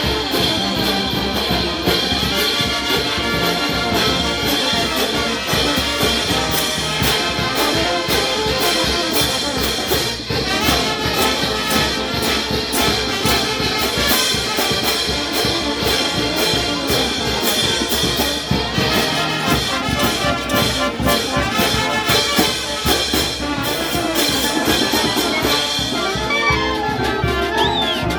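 Brass band playing a festive tune at full volume over a steady percussion beat.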